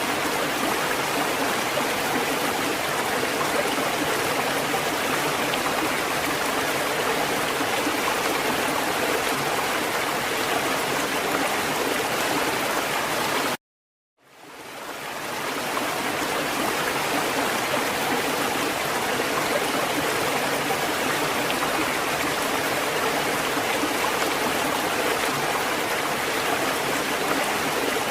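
Steady rushing water, an even wash of noise with no distinct swells. About halfway through it cuts out abruptly to silence for about half a second, then fades back in over a second or two.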